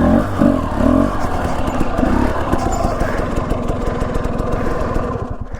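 Husqvarna TE250 enduro dirt bike engine running as the bike is ridden along a trail. The level eases off near the end.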